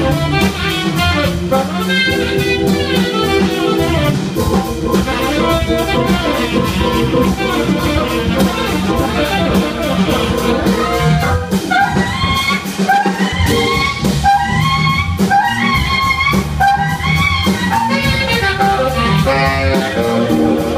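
Live jazz-funk band of tenor saxophone, trumpet, Hammond organ and drum kit playing over a steady drum beat, with quick rising horn runs in the second half.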